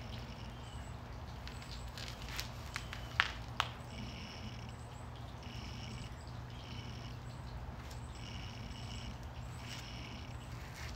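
A bird calling over and over: steady high notes, each half a second to a second long, repeated every second or so over a constant low hum. A few light clicks come between about two and three and a half seconds in.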